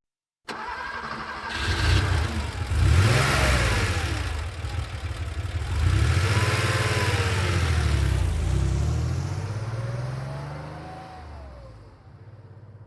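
1990 Porsche 911's air-cooled flat-six starting with a short crank about half a second in, catching and revving, then pulling away slowly and fading as it moves off.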